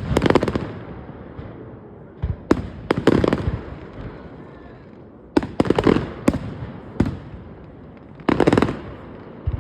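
Aerial fireworks going off in a display: clusters of sharp bangs, one every second or two, each trailing off in a rumbling echo.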